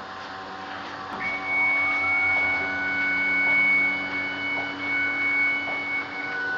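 Komori Sprint S-26 offset printing press starting up. Over a low hum, a steady high whine comes in suddenly about a second in, while a second tone rises in pitch and levels off as the press comes up to speed. The whine breaks off briefly near the end and returns.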